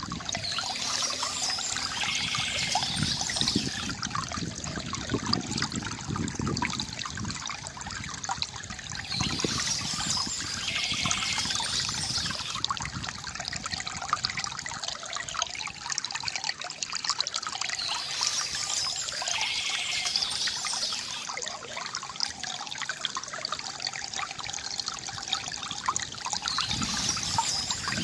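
Water trickling and gurgling from a bamboo fountain, with birds chirping in bouts that come back about every nine seconds.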